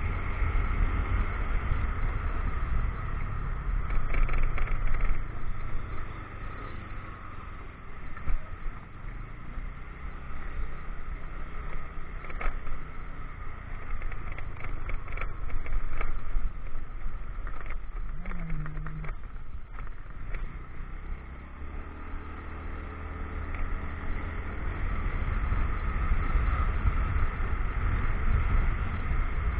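Motorcycle engine running under way, with scattered knocks and rattles between about twelve and nineteen seconds in. The engine eases off and goes quieter for a few seconds past the middle, then picks back up.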